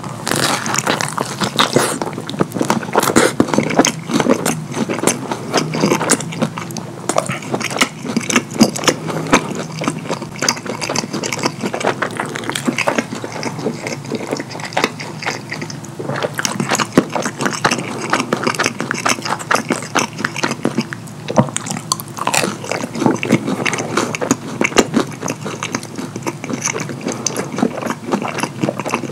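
Close-miked mouth sounds of a person chewing pepperoni pizza: continuous smacking and crackling clicks.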